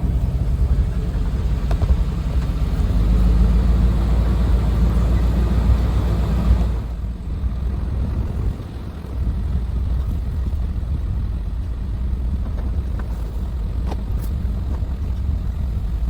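Truck driving slowly, a steady low rumble of engine and road noise. About seven seconds in it drops to a quieter low rumble.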